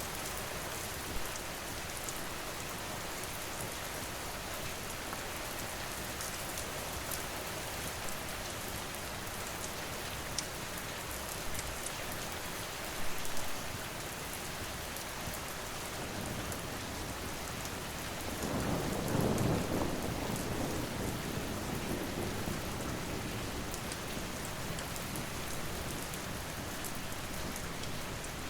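Steady rain with a low roll of thunder that swells about two-thirds of the way through and fades over a few seconds. Light crackling from a fire runs over the rain.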